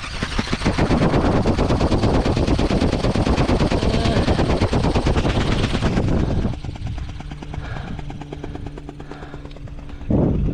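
Flapping-wing RC bird (Go Go Bird eagle) in flight, its electric motor and gearbox driving the wings: a loud, fast rattling buzz for about six seconds, then fainter with a steady motor hum. A brief loud burst of noise near the end.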